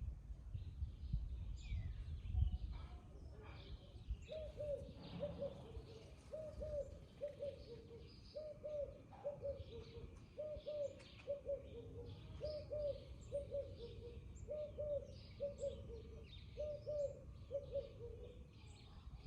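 A dove cooing in a long, even series of repeated low notes that starts a few seconds in and stops near the end, over small birds chirping and twittering. A low rumble sits underneath, strongest at the start.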